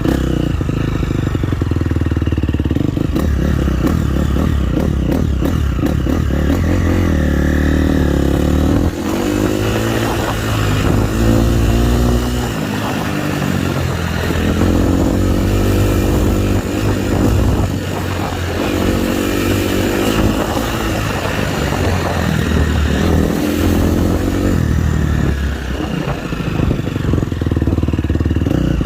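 Motocross dirt bike engine being ridden round a track, revving up under acceleration and dropping back between pulls several times over, with clatter from the bike.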